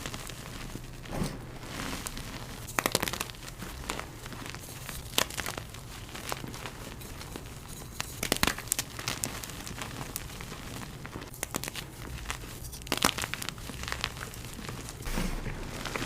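Blocks of gym chalk being crushed and crumbled, a run of dry crunches and crackles, several of them sharper and louder than the rest.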